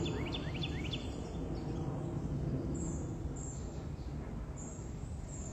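Birds chirping outdoors: a quick run of short rising chirps in the first second, then high short chirps every second or so, over a steady low background rumble.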